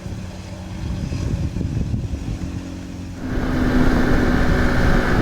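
KTM 500 EXC single-cylinder four-stroke dirt bike engine running under way, a steady hum that turns abruptly louder and fuller about three seconds in.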